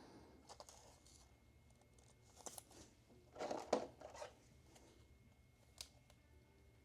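Faint handling of trading cards and their packaging: scattered soft clicks and rustles, with one brief louder rustle about three and a half seconds in.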